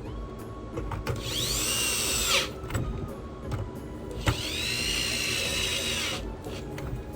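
Cordless electric screwdriver running twice in short bursts, backing out PlayStation 5 case screws; each run has a whine that rises as the motor spins up and drops as it stops.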